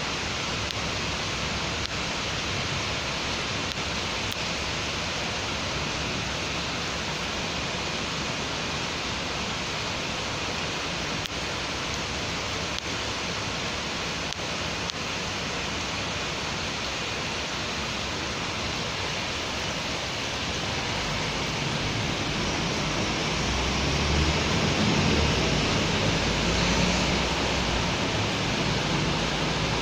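Steady hiss of rain falling on a city street. About two-thirds of the way in, a low rumble builds and peaks near the end: a vehicle passing on the wet road.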